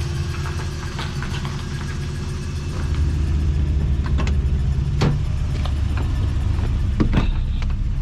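Subaru BRAT's swapped-in engine idling steadily with a low hum, a little louder from about three seconds in. A few sharp clicks sound over it near the middle and end.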